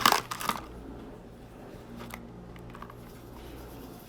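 Clicks and taps of a makeup blush compact being handled, a quick cluster right at the start and a few faint ticks about two seconds in, over a low steady hum.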